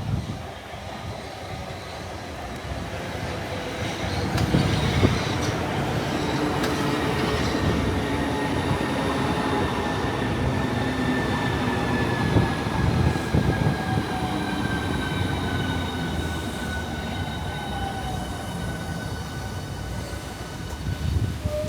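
Electric train at a station. Its running noise builds over the first few seconds and then holds, with wheel-on-rail rumble and a high whine that slowly falls in pitch.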